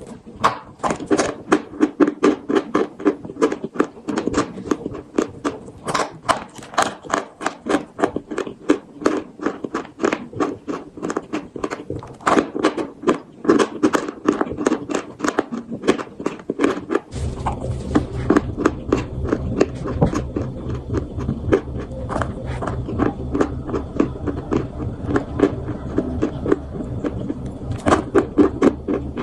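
Close-up crunching and chewing of edible chalk coated in paste, with sharp crunches at about three a second. A steady low hum comes in about two-thirds of the way through and runs almost to the end.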